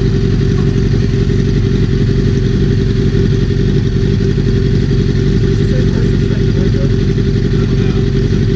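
Straight-piped motorcycle, its slip-on muffler removed, running steadily with a loud, rapid exhaust putter and no revving.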